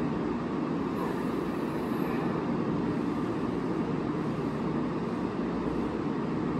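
Steady hum of a JR West 683 series electric express train standing at the platform, its onboard equipment running while the train waits to depart.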